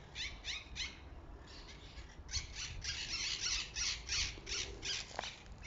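A flock of small songbirds chirping and twittering: quick runs of short, high notes repeated over and over, growing busier about halfway through.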